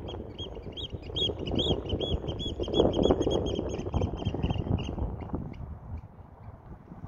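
A bird calling a fast series of short, high piping notes that quicken and then fade out about five seconds in, over a low rumbling noise.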